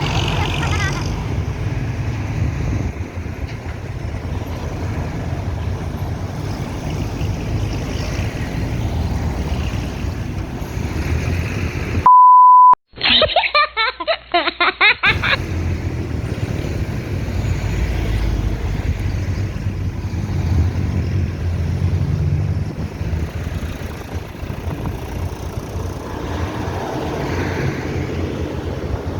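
Road traffic of heavy trucks: a steady low engine and tyre rumble. About twelve seconds in it is cut by a loud, steady electronic beep under a second long, then a couple of seconds of a different, muffled sound before the rumble returns.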